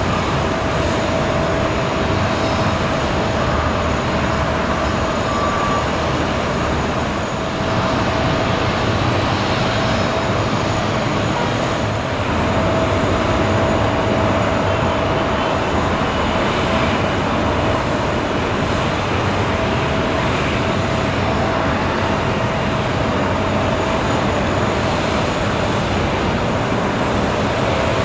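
Steady airport ramp noise: a continuous rush of jet aircraft and ground machinery with a thin steady whine.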